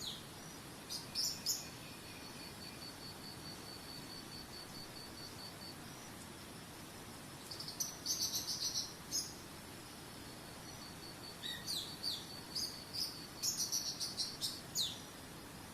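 Songbirds chirping in several short bursts, with an insect's steady high pulsing trill, over a steady rush of flowing water.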